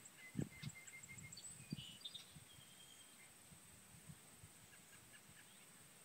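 Faint morning birdsong: a quick run of short repeated notes, then a few higher chirps, and some soft calls again near the end, over a steady high hiss. A few low bumps on the microphone in the first two seconds are the loudest sounds.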